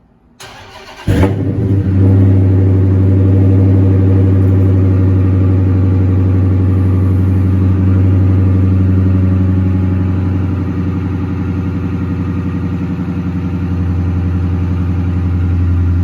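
Cold start of a muffler-deleted Chrysler 300: the starter cranks briefly, the engine catches about a second in, and it settles into a loud, steady fast idle through the open exhaust. The idle eases down a little past the middle and comes back up slightly near the end.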